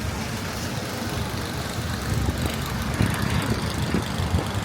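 City street traffic: vehicle engines running under a steady wash of road noise, the low rumble growing heavier about two seconds in.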